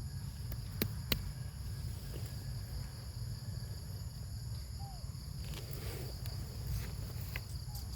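Steady high-pitched insect chorus of crickets or cicadas holding several constant tones, over a steady low rumble. A couple of sharp clicks come about a second in.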